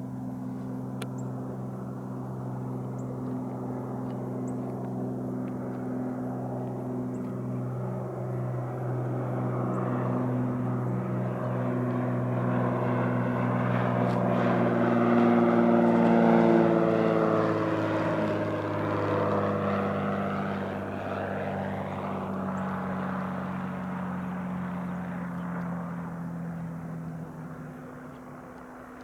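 Beechcraft V35 Bonanza's single piston engine and propeller droning as it comes in to land. The drone grows louder to a peak about halfway through as the plane passes close, then fades away.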